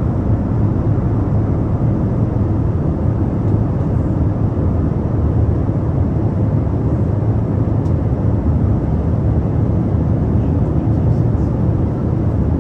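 Airliner cabin noise in flight: a steady, low drone of the engines and rushing air, unchanging throughout.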